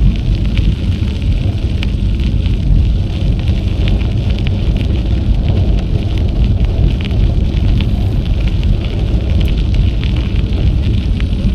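Wind buffeting an action camera's microphone while riding a bicycle: a steady low rumble with scattered small crackles and ticks throughout.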